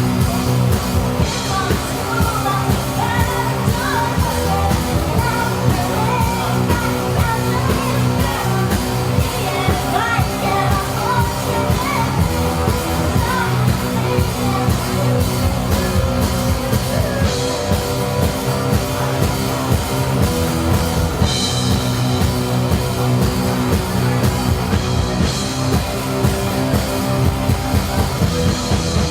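A live rock band playing loud and steady, with electric guitars, bass and a drum kit, and a sung vocal line over them.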